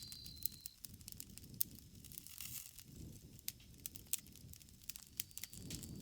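Bonfire crackling: irregular sharp pops and snaps of burning wood over a low rumble of the flames. A cricket's steady high chirring comes in near the end.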